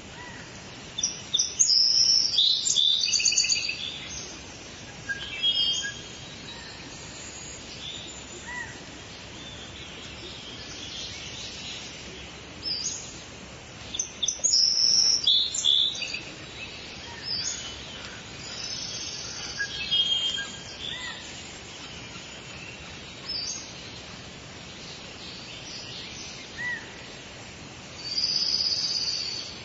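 Songbirds singing and calling in short, high, chirping phrases every few seconds, loudest a couple of seconds in and again around fifteen seconds in, over a steady background hiss.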